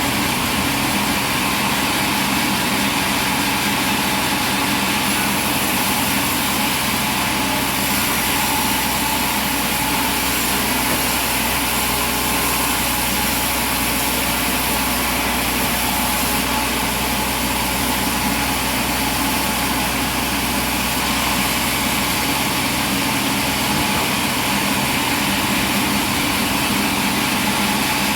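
Machinery engine running steadily at a constant speed, with no change in pitch and no distinct knocks or cuts.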